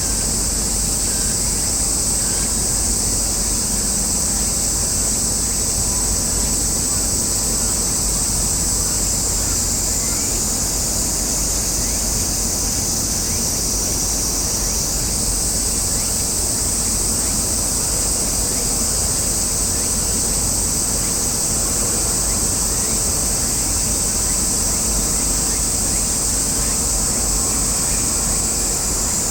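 Steady outdoor noise: a low rumble with a bright, steady high hiss above it, whose pitch shifts slightly about halfway through.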